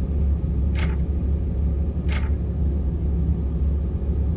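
A steady low rumble with two short hissing sounds, the first about a second in and the second just over a second later.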